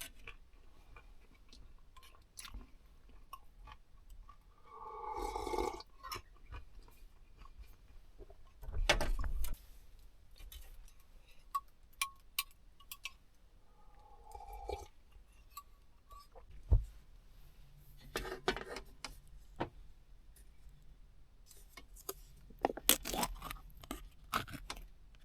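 Scattered clicks, knocks and short scrapes of small objects being handled, with a denser run of clicks near the end.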